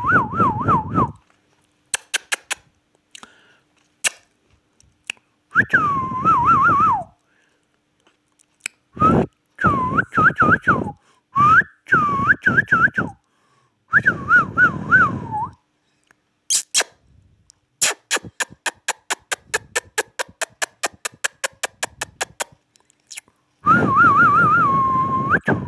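Indian ringneck parrot whistling, with short warbling phrases that waver up and down in pitch, repeated several times with pauses between them. Partway through comes a run of fast, evenly spaced clicks.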